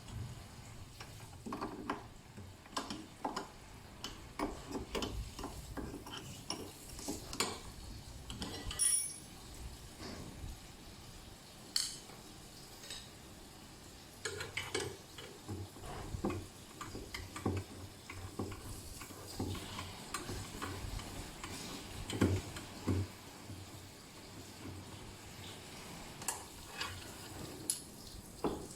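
Irregular metallic clinks and light knocks of tools and parts being handled, scattered through the whole stretch with no steady rhythm.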